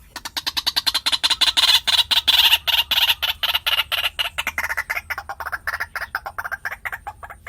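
White-breasted waterhen calling: a rapid, unbroken run of sharp notes, about ten a second, that sinks in pitch partway through and softens somewhat in the second half.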